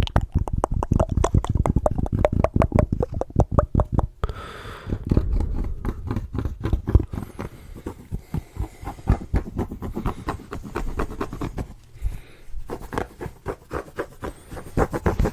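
Fast, sharp fingertip tapping for about four seconds, then softer tapping mixed with scratching and rubbing. The sound dips briefly near the end before sharp taps start again.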